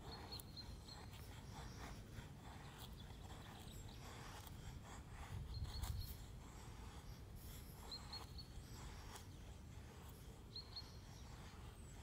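A small bird repeating a short, high call of two or three quick notes every few seconds, over faint outdoor rustling and scattered light clicks.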